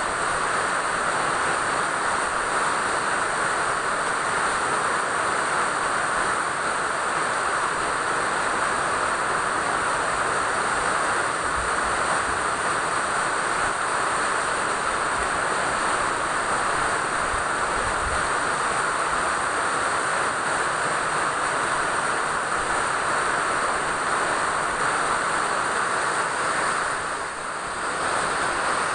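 Steady rain falling, an even hiss of drops that briefly softens near the end.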